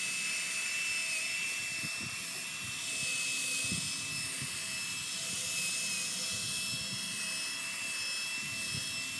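Power drill spinning an 800-grit sanding pad to wet-sand a plastic headlight lens, running at a steady high-pitched whine.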